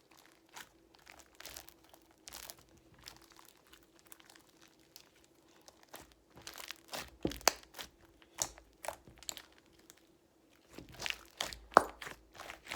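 Hands squishing and stretching a clay butter slime full of foam beads: irregular wet crackles, pops and crunches, sparse at first and coming in denser clusters in the second half.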